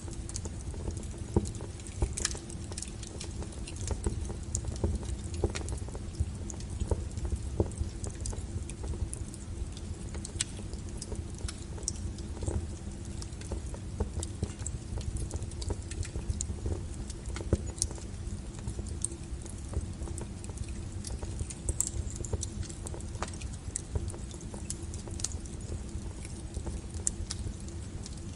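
Wood fire in a fireplace crackling, with irregular sharp pops over a low, steady rumble.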